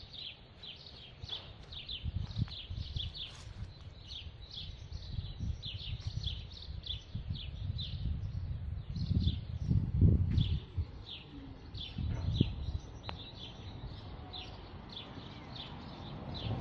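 A small bird chirping over and over, short falling chirps about three a second. A low rumble on the microphone runs underneath and is loudest about ten seconds in.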